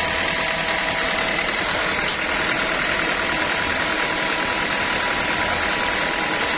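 Sawmill saw machinery running steadily, with a constant whine over the machine noise and a brief click about two seconds in.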